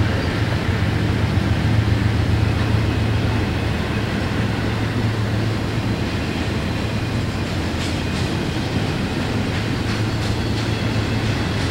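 Norfolk Southern intermodal freight train passing close by at a grade crossing. The diesel locomotives' low drone is strongest at first, under a steady rumble of wheels on rail. From about two-thirds of the way through, sharp wheel clicks come in as the loaded trailer and container cars roll past.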